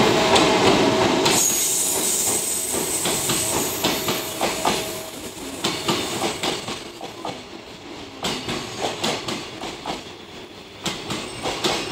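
Freight train of container flat wagons rolling past at speed, the wheels clattering over rail joints in an uneven rhythm, with a brief high squeal from the wheels a second or two in.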